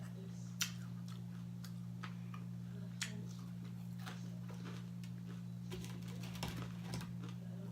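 Close-up chewing and crunching of crispy reheated fried chicken wings: a sharp crunch about half a second in, another about three seconds in, and a cluster of smaller crunches near the end, over a steady low hum.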